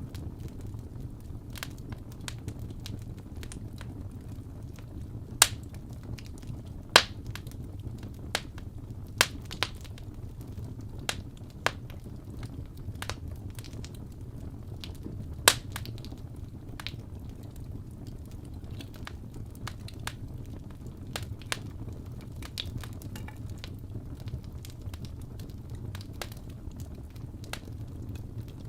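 Wood fire burning in a fireplace: a steady low rumble of flames with scattered crackles and sharp pops, the loudest few in the first half.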